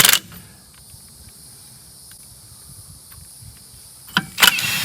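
Insects chirring steadily in the background. Near the end there is a loud hissing, whirring burst lasting a bit under a second.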